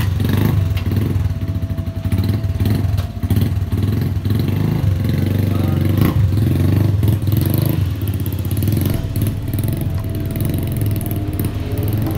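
Classic-style motorcycle engine running close by, coming in loud right at the start and revving in repeated blips as the rider moves off.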